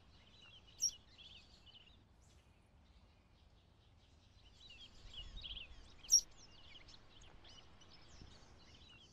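Small birds chirping and twittering over faint outdoor background noise, with two sharper, louder chirps about a second in and about six seconds in.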